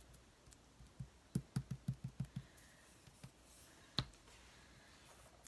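Soft taps and clicks: a quick run of about seven light taps, then a single sharper click about four seconds in.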